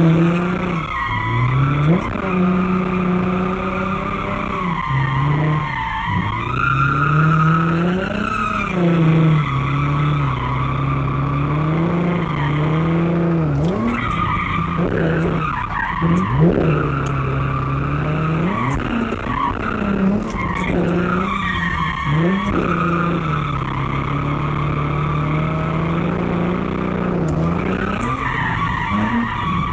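Nissan 350Z's V6 engine revving up and falling back again and again while the car drifts, with tyres squealing, heard from inside the cabin.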